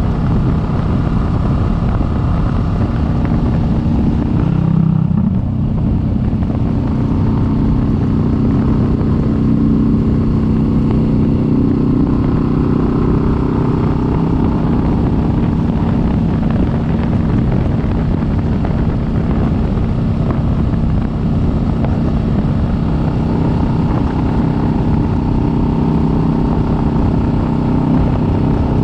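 Kawasaki Vulcan S 650 parallel-twin engine running steadily under way, with a brief change in the engine note about five seconds in.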